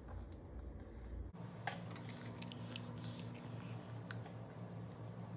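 Faint, scattered light clicks and taps of kitchen utensils and eggs being handled at a bowl, over a low background hum that changes abruptly about a second in.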